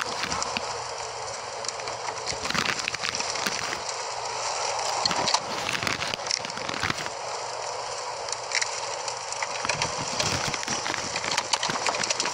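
Storm wind rushing, with a dense crackle of sharp clicks and knocks throughout.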